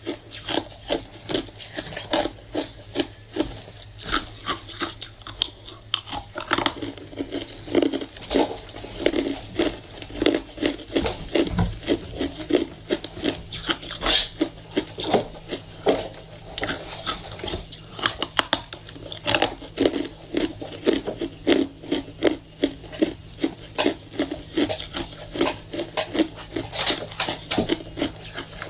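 Hard ice being bitten and chewed close to the microphone: a steady run of crisp crunches, about two to three a second.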